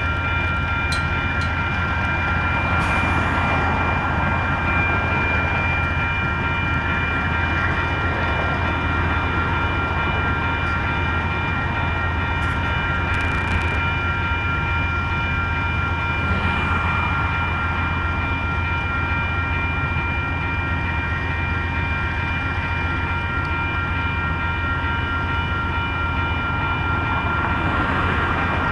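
Amtrak Coast Starlight's diesel locomotive running steadily: a constant low engine drone with several steady whining tones above it.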